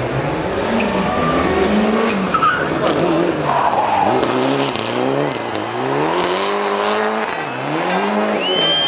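Rally car engine revving up and down again and again under hard driving, with tyres skidding. A high, steady squeal begins near the end.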